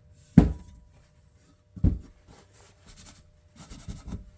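Two sharp knocks about a second and a half apart, then light rustling and small clicks: parts and tools being handled and set down on a workbench.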